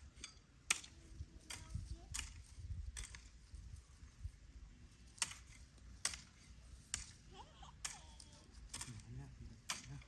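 Sharp clicks or taps at irregular intervals, about one a second, over a low rumble, with faint voices near the end.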